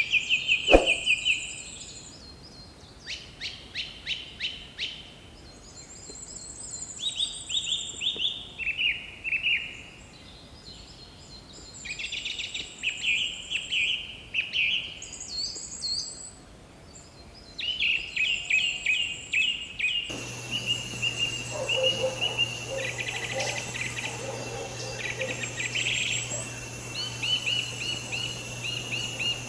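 Several birds singing and calling, with short repeated chirps and fast high trills overlapping. There is a sharp click about a second in. Partway through, the background turns to a steady hiss with a low hum while the chirping carries on.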